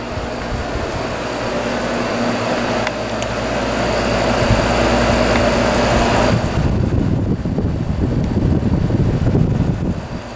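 Vintage window air conditioner running on high, its fan blowing with a steady hiss and hum. About six seconds in, the higher hiss drops away, leaving an uneven low rumble.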